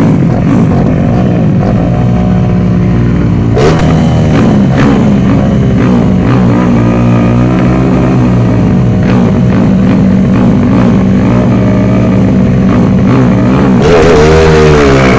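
Motorcycle engines running loudly. Near the end the pitch sweeps up and down as a bike revs and accelerates.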